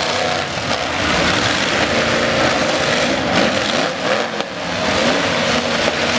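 Demolition derby trucks' engines revving hard at once, several pitches rising and falling over one another.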